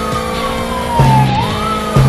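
A siren sound effect wailing, its pitch sliding slowly down and then rising again, over a background music track with a short low note about a second in.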